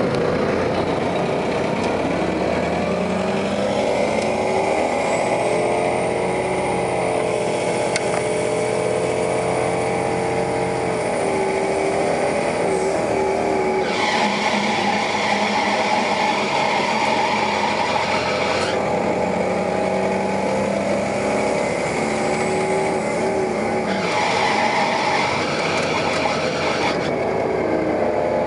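New Flyer articulated city bus under way: engine and transmission tones climbing in pitch as the bus pulls away and levelling off, twice, with a thin high whine over the first climb. Two stretches of loud rushing hiss come in between them.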